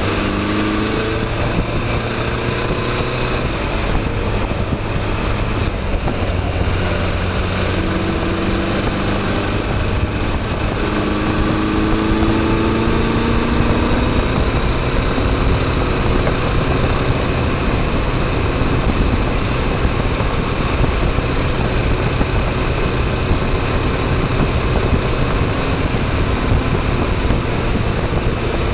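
Motorcycle engine running under way with a steady rush of wind noise; the engine note climbs as it accelerates near the start and again about eleven seconds in.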